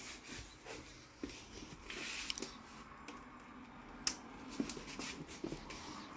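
Faint rustling and rubbing with scattered small clicks.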